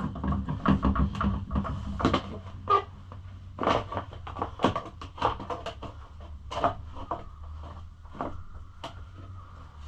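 Irregular knocks, clicks and rattles of plastic body panels and parts being handled and fitted on a pit bike, with a steady low hum underneath.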